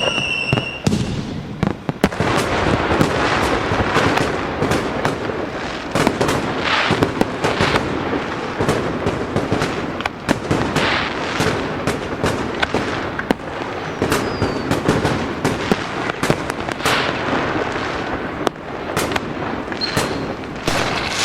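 Fireworks going off in quick, overlapping bangs over continuous crackling. A descending whistle from a rocket fades out about a second in.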